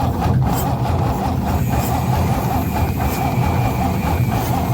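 Mercedes six-cylinder engine running steadily at a constant speed, with no rise or fall in revs.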